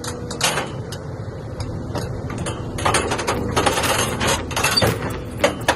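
Caterpillar 320 excavator working: a steady engine rumble under repeated metal clanks and knocks, which grow busier about halfway through.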